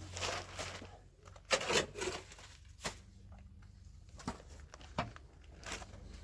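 Scattered knocks and rustling, about half a dozen sharp sounds at uneven intervals, over a low steady hum.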